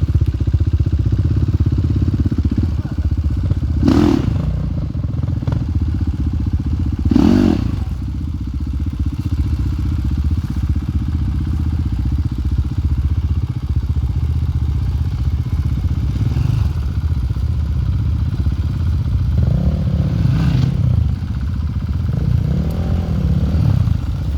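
Enduro motorcycle engine running steadily at low revs, with two short louder moments about 4 and 7 seconds in.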